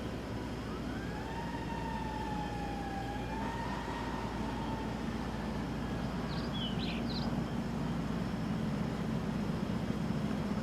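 Distant emergency vehicle siren wailing, its pitch slowly rising and falling, over a steady low rumble; the siren fades out about halfway through, and a few short high chirps follow.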